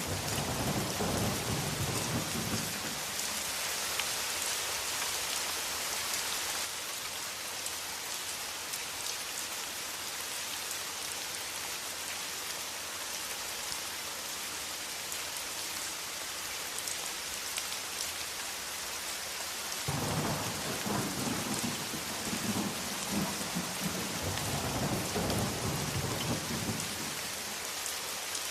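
Steady heavy rain, with thunder rumbling low at the start, fading within a few seconds, and rolling again for several seconds about two-thirds of the way through.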